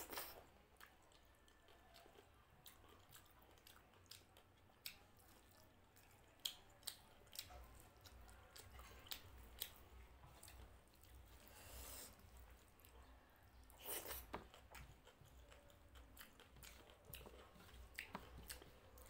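Close-up, quiet chewing of rice and mutton curry, with scattered wet mouth clicks and smacks.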